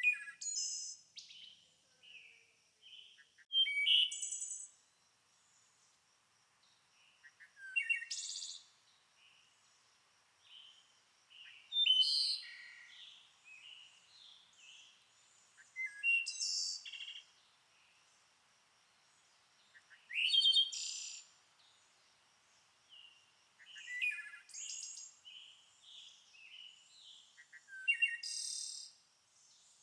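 Wild birds singing: a short, high-pitched song phrase repeats about every four seconds, with fainter chirps from other birds between the phrases and a faint steady high tone behind.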